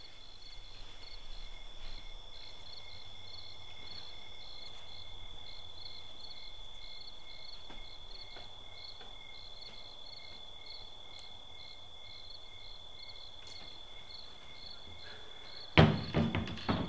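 Crickets chirping steadily: a continuous high trill with a regular pulsing chirp over it. Near the end a sudden loud sound breaks in, followed by a few sharper ones.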